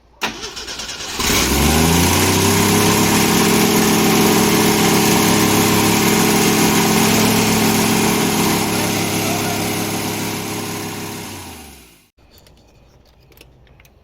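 Jeep J10's engine being started: the starter cranks for about a second, the engine catches with a quick rise in speed and then runs steadily for about ten seconds, before winding down and cutting off.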